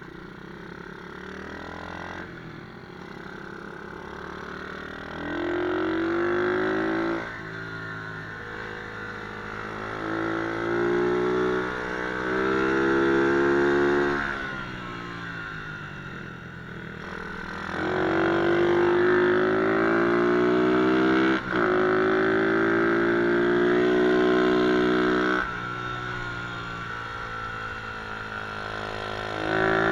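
MRF 120cc pit bike engine on a track, revving up and backing off again and again as the bike accelerates and slows, with loud spells of high throttle between quieter stretches.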